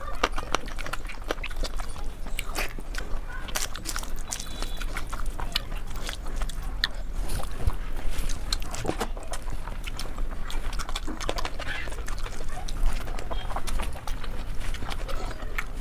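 A person eating: close-up chewing and mouth sounds, a steady run of small clicks and smacks.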